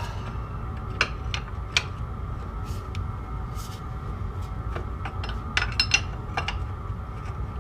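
A few sharp metallic clinks and taps of hand tools and steel parts being handled, with a cluster of them about two-thirds of the way in, over a steady low hum.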